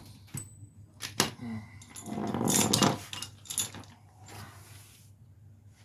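A dog making a noisy vocal sound, loudest about two to three seconds in, with a few sharp clicks in the first second and a half.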